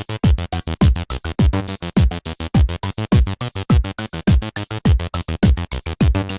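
Electronic jam: two Behringer TD-3 MO acid bass synths playing a fast, even sequenced bass line in unison, unprocessed, over a Roland JD-Xi drum pattern with a kick drum a little under twice a second.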